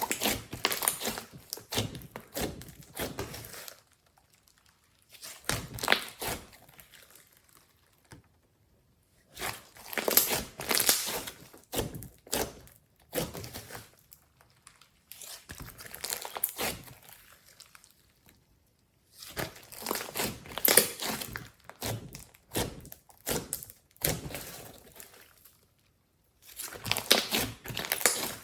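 Hands squeezing and stretching glossy slime, giving dense sticky clicking and crackling. It comes in about six spells of a few seconds each, with short quiet gaps between them.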